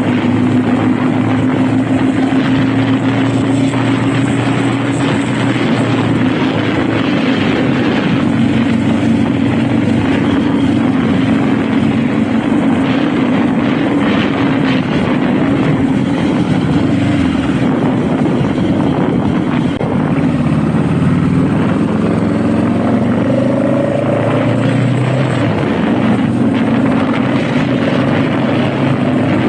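Honda Rebel motorcycle engine running steadily while being ridden, under a heavy rush of wind noise. About two-thirds of the way through, the engine note drops and then climbs again as the speed changes.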